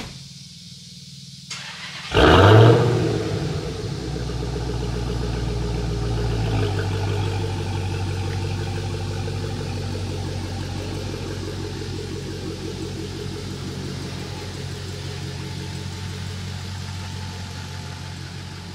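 Dodge Challenger V8 starting up with a loud rev flare about two seconds in, then settling into a steady fast idle that steps down a few seconds later.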